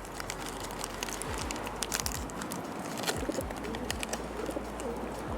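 Doves cooing in soft, wavering calls from about two and a half seconds in, over scattered sharp clicks.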